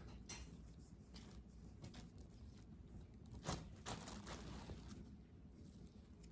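Faint rustling and handling sounds with a few soft knocks, one a little louder about halfway through, as gift items and their packaging are handled.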